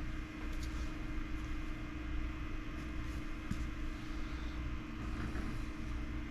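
Steady low machine hum with a constant tone, and a faint click about three and a half seconds in.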